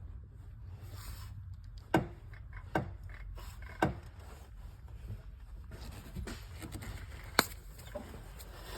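Hand tools knocking and clicking against metal during removal of an engine belt: a few sharp knocks, the loudest about seven seconds in, over a steady low hum.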